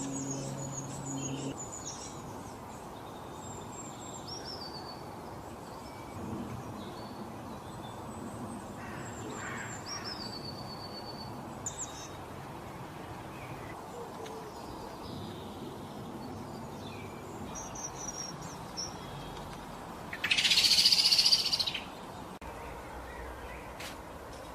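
Small birds chirping with short high calls over a steady outdoor background hiss, with one loud, harsh call about twenty seconds in lasting a second or so. A low steady tone sounds for the first second and a half.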